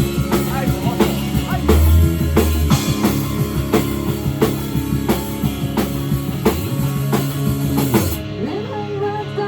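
Rock band playing live: drum kit keeping a steady beat of about two strokes a second under bass and electric guitar. Near the end the drums and cymbals drop out, leaving the guitar.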